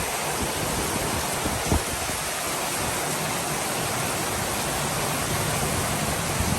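Heavy tropical rain falling in big drops, a steady even hiss, with one brief knock about two seconds in.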